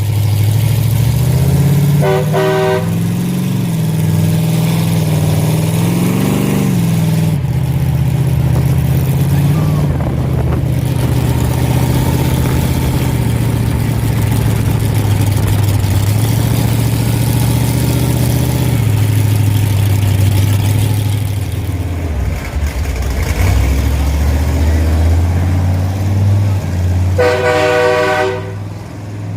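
Big monster truck engines running loudly, their pitch shifting and rising and falling as they rev. A short horn blast sounds a couple of seconds in, and a longer one near the end.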